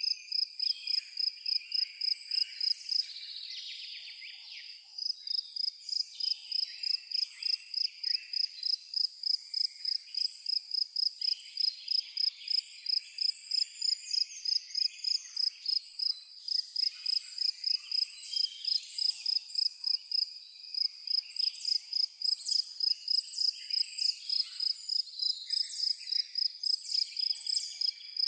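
A cricket chirping steadily in a fast, even rhythm of about three high chirps a second, pausing briefly a few seconds in. Birds sing over it.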